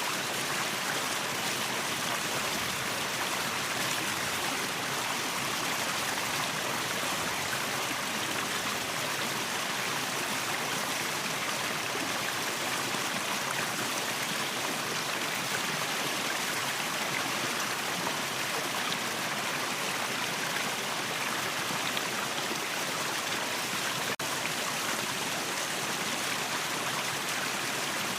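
Waterfall and stream water rushing in an even, unbroken hiss.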